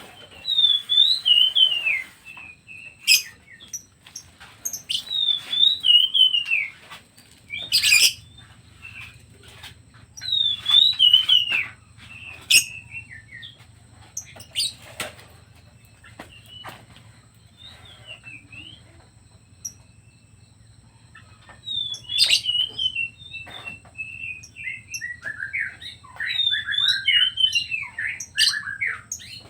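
Pet songbird singing a short phrase of quick sliding whistled notes that fall in pitch, repeated about every five seconds, with sharp clicks between the phrases.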